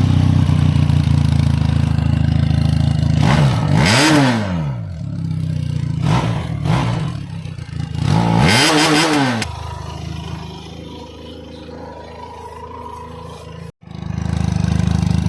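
Benelli TRK 502X's parallel-twin engine idling, revved twice, each blip rising and falling in pitch: about four seconds in and again near nine seconds. It then settles to a quieter idle, cuts out briefly near the end and comes back louder.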